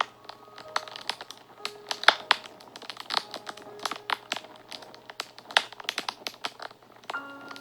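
Wood fire crackling, with many sharp, irregular pops and snaps. Soft background music plays underneath as scattered held notes.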